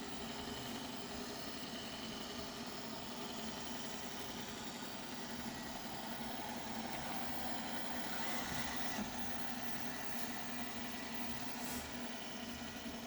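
Dreame robot vacuum cleaner running: a steady hum from its suction fan and brushes.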